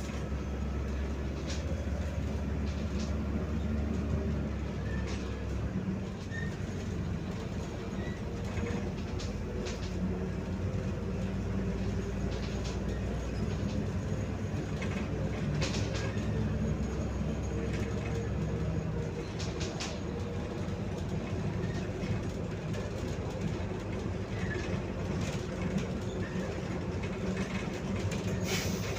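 Interior noise of a MAZ 105.065 city bus under way: a steady engine and road drone with scattered rattling clicks from the cabin. The low engine note changes about six seconds in and again near nineteen seconds.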